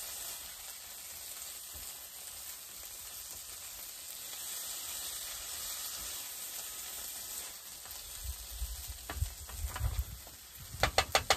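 Cauliflower rice sizzling steadily in a frying pan as it is stirred with a spatula. In the last few seconds the spatula knocks and scrapes against the pan, ending in a quick run of clicks.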